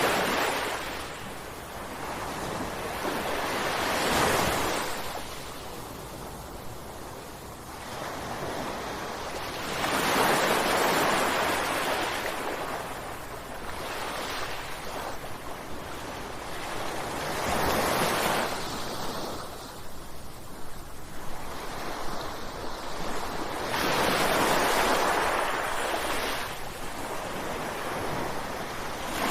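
Ocean waves crashing. The rush of surf swells and ebbs, with a wave peaking about every seven seconds.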